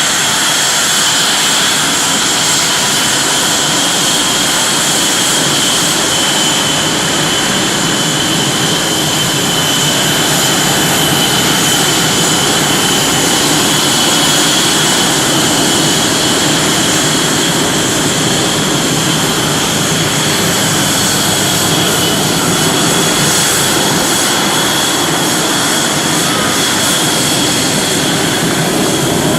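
Jet engines of Blue Angels F/A-18 Hornets running at low power while taxiing: a steady, loud rush with a high-pitched turbine whine.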